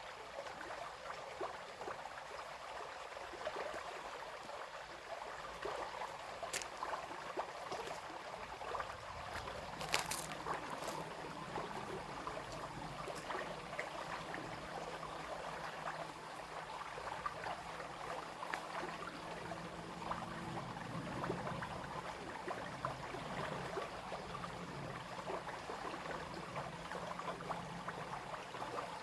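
A small brook babbling and splashing steadily over stones, with a few sharp clicks about a third of the way in.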